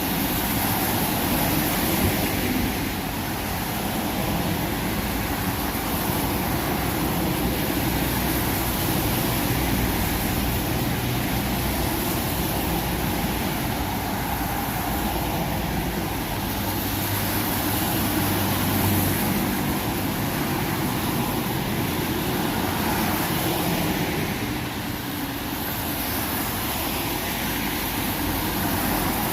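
Steady rain falling in a storm, an even hiss with no break.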